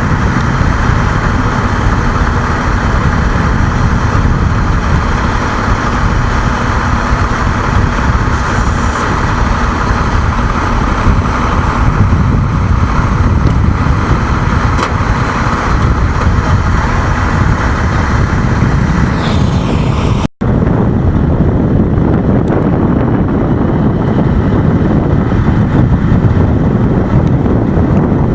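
Fire truck engine running steadily. About twenty seconds in the sound cuts and gives way to a deeper rumble, with wind on the microphone.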